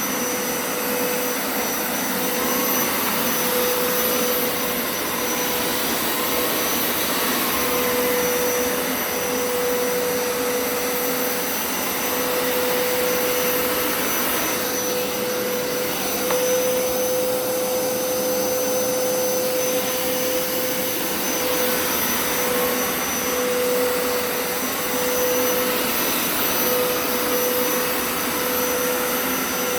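Hoover Turbo Scrub carpet cleaner running steadily over carpet: a constant motor whine over a loud rushing hiss of suction.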